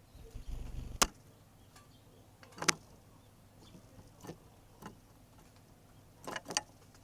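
A Eurasian tree sparrow pecking, making about six scattered sharp taps and clicks. The loudest tap comes about a second in, just after a brief low rumble, and a quick pair of taps comes near the end.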